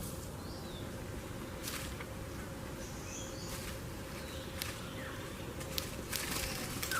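Steady insect buzz over a low outdoor rumble, with a few faint, short bird chirps and light clicks.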